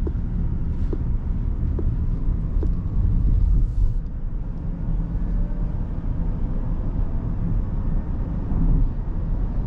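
Steady low road and tyre rumble inside the cabin of a 2023 Rivian R1S electric SUV on the move, with a faint whine slowly rising in pitch partway through.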